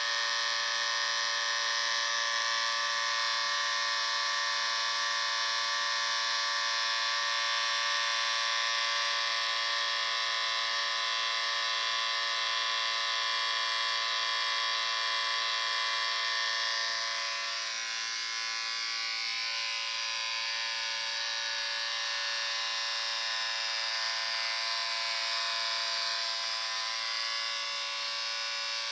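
Electric shaver running continuously with a steady buzz. About two-thirds of the way through, the buzz shifts slightly in tone and becomes a little quieter, then carries on steadily.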